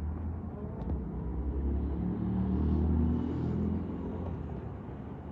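A motor vehicle engine running, growing louder to about three seconds in and then fading.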